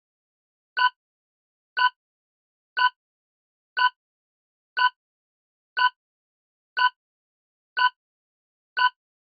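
Countdown-timer sound effect: short, identical clock-like ticks, one a second, about ten in all, with silence between them.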